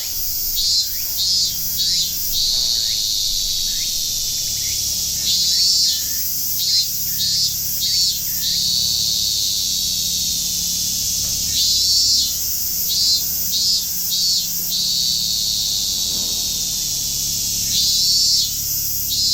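Summer cicada chorus buzzing steadily and high, with one loud call repeating about every six seconds: a longer burst, then three or four short pulses. A few short bird chirps come in between.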